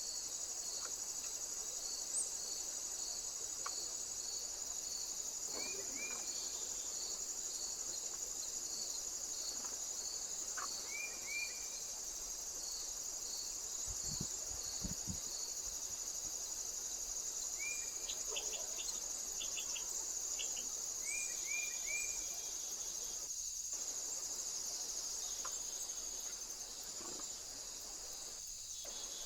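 Crickets or bush crickets stridulating: a steady high-pitched trill, with a second insect pulsing about every half second through the first half. A few short high chirps come in between.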